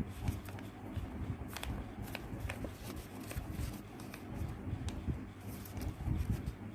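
A sheet of paper being folded and creased by hand, with irregular rustling and crinkling.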